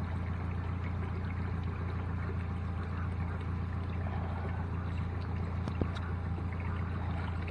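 A steady low hum with faint water sloshing over it, and a single sharp click about six seconds in.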